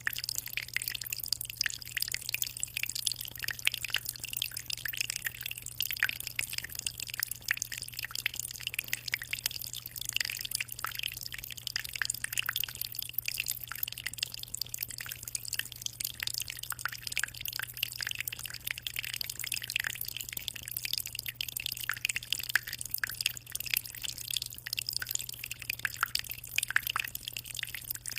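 Aquarium water moving at the surface in a continuous dense patter of small drips and splashes, with a steady low hum underneath.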